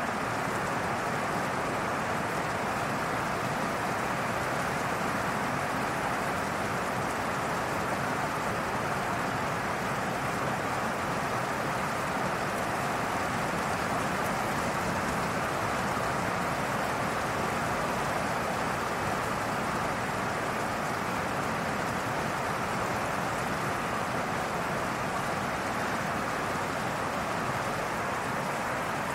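Gentle rain falling steadily through tree leaves, an even hiss that does not let up.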